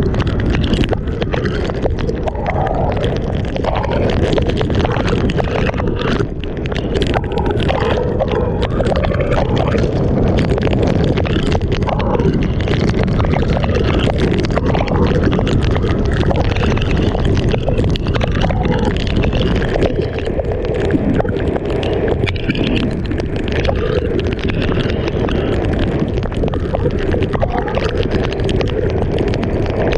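Typhoon wind blowing hard and steadily, buffeting the microphone, with the rush of water mixed in.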